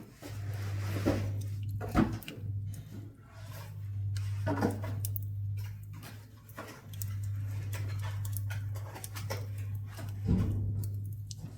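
Scrap pine wood crackling and popping as it burns in a wood-burning stove, with scattered sharp snaps and a few louder pops. A low steady hum stops and starts several times underneath.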